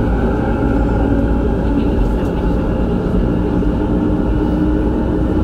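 Manila MRT Line 3 train running: a loud, steady low rumble with a steady hum that grows a little stronger about halfway through.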